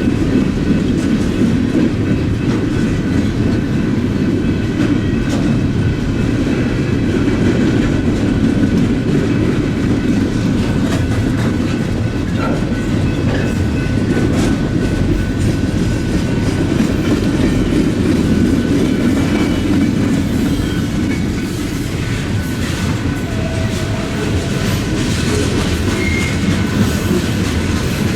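Freight train rolling slowly past, with a steady rumble and wheels clacking over the rail joints. A brief high squeal comes near the end.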